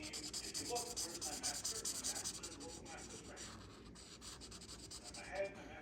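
A drawing tool rubbing on paper in quick back-and-forth shading strokes, giving a steady scratchy hiss.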